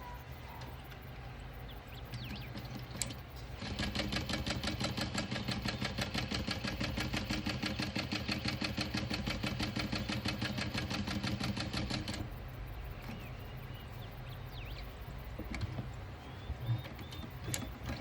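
Juki DU-1181N industrial walking-foot sewing machine stitching in one steady run of rapid strokes over a motor hum, starting a few seconds in and stopping about two-thirds of the way through. Faint bird chirps before and after.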